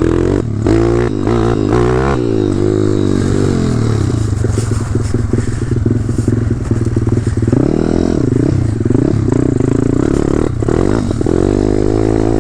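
Pitster Pro X5 pit bike's 190cc single-cylinder four-stroke engine revving up and down as the throttle is worked, with several clattering knocks from the bike.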